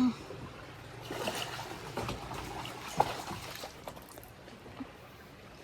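Water splashing and trickling as a small hooked striped bass is brought in to the riverbank, with irregular small splashes and a couple of sharp knocks, the loudest about three seconds in.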